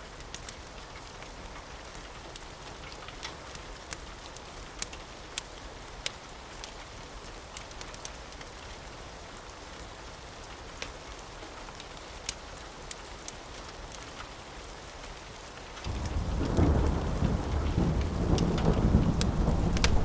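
Steady rain with scattered sharp pops, then a loud rumble of thunder breaks in about three-quarters of the way through and keeps rolling.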